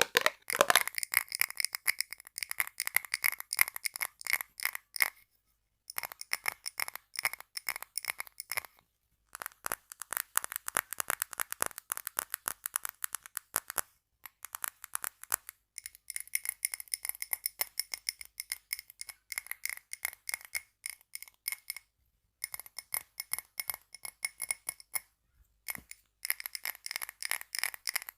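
Fast ASMR tapping and scratching on small items such as glass bottles and tape: rapid taps in runs broken by several short pauses, some runs with a light glassy ring.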